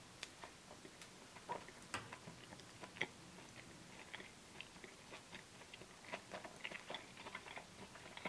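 Faint, close-up chewing of a soft, soggy chicken baguette: irregular small moist mouth clicks and smacks.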